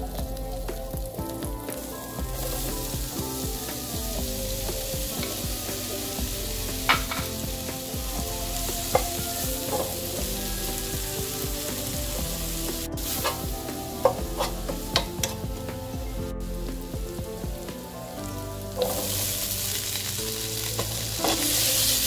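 Vegetables sizzling as they fry in a pan (chopped onion, then squash blossoms, then green beans), stirred with a slotted metal spatula that clicks against the pan several times. The sizzle jumps louder at about 2 s and again at about 19 s.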